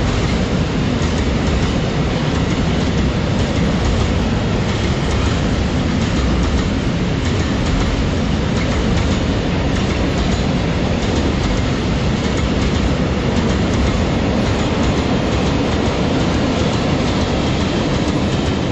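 Freight train of rail tank wagons rolling past close by: a steady loud rumble, with the wheels clicking continually over the rails.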